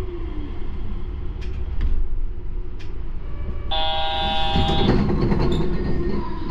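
Yurikamome rubber-tyred automated guideway train running with a steady low rumble. A brief tone with several overtones sounds about four seconds in, followed by a louder rush of running noise.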